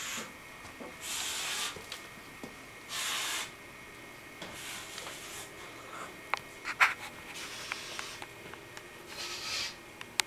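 A person making breathy hissing mouth sounds in short bursts about half a second long, five or six in all, with a few sharp clicks, the loudest a little past the middle.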